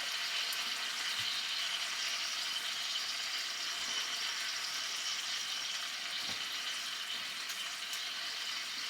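Chicken breasts sizzling steadily in olive oil in a cast iron skillet, kept going by the pan's own heat after the burner has been switched off.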